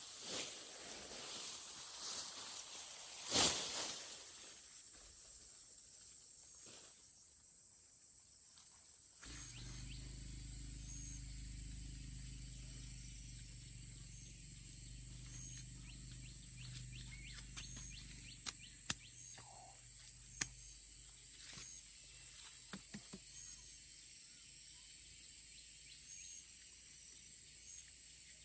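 A steady high insect drone, with rustling and one sharp knock about three seconds in. From about nine seconds a low steady hum joins it, with a few sharp clicks near the end.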